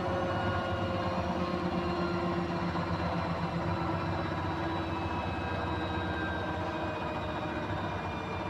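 Beko WMY81283LMB2 washing machine in its final spin with an unbalanced load: the drum and motor run with a steady low hum, and a whine that slowly falls in pitch.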